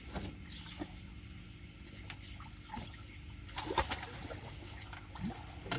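Water splashing and knocking in a short burst a few seconds in, over a faint low hum, as a flathead catfish is landed at the side of the boat.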